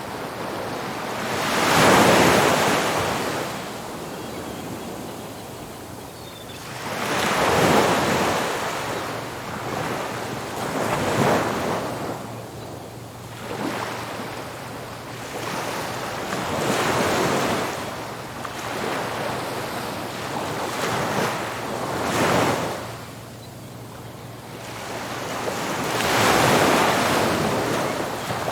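Ocean waves breaking on a beach, the surf swelling and falling away in surges every four to six seconds, with a steady hiss between them.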